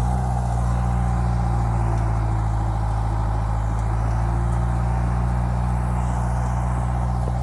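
Heavy earthmoving machine's diesel engine running at a steady speed, a low, even drone that does not rise or fall.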